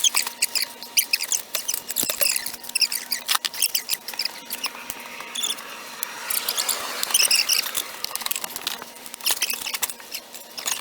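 Hand work on an aluminum intake manifold: irregular high-pitched squeaks and scratches with many small clicks, with no power tool running.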